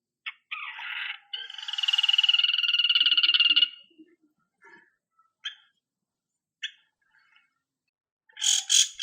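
Long-tailed shrike (cendet) singing: a short harsh note, then a rapid buzzing trill held for about two seconds, a few short scattered calls, and a loud harsh burst of notes near the end.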